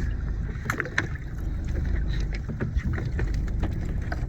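A small fishing boat at sea: a steady low rumble with scattered light knocks and clicks.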